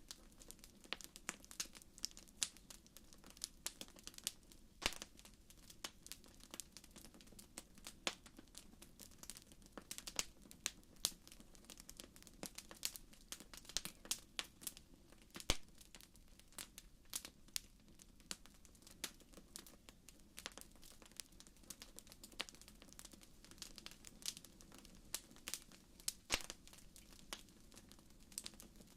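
Wood fire crackling in a fireplace: irregular sharp pops and snaps, several a second, over a soft steady low rumble.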